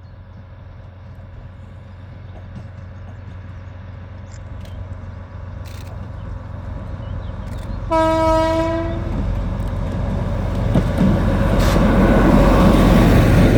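A train approaching, its low steady rumble growing louder, with one horn blast of about a second some eight seconds in.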